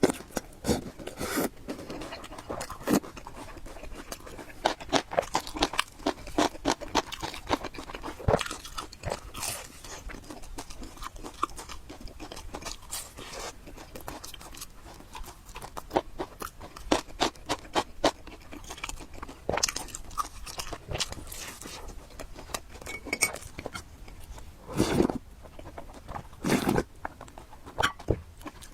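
Close-miked chewing and crunching of food: a dense, irregular run of crunches and mouth clicks, with two longer, louder bursts near the end.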